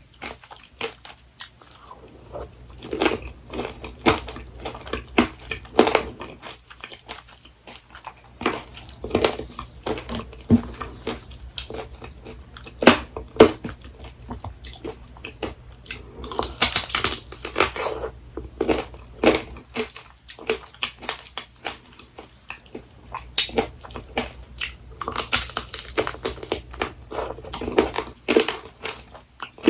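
Close-miked biting and chewing of apricot tanghulu: the hard sugar-candy shell cracks and crunches between the teeth in clusters of sharp crunches, with quieter wet chewing between them.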